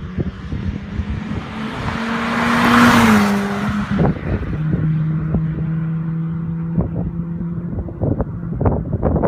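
Ford Fiesta ST Mk7's turbocharged 1.6-litre EcoBoost four-cylinder exhaust. The engine note swells to a loud peak about three seconds in and drops in pitch, then settles into a steadier lower tone with crackling pops, which come thicker near the end.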